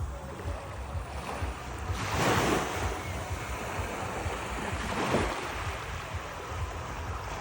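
Sea waves washing onto the shore in a steady hiss, with two louder breaking surges about two and five seconds in. Wind buffets the microphone with a low rumble.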